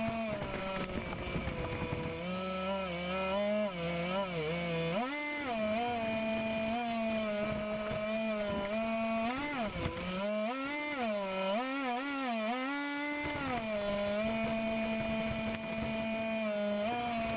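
RC air boat's motor and propeller running, its pitch repeatedly rising and falling as the throttle is worked, then holding steady for the last few seconds.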